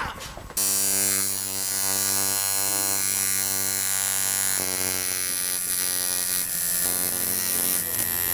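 Electric tattoo machine switched on about half a second in and buzzing steadily as it works the needle into skin.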